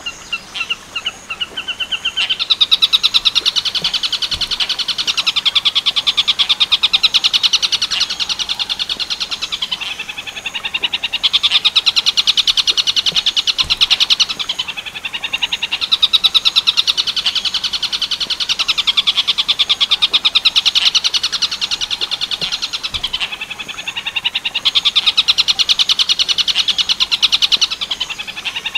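Bird singing the 'tengkek buto' call: a loud, very fast chattering trill of high notes. It comes in long runs of several seconds, broken by short pauses about 10, 15 and 23 seconds in.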